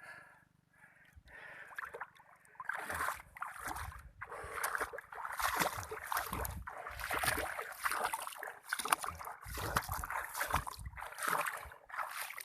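Water splashing and sloshing in irregular bursts, quieter for the first two seconds and then busier and louder.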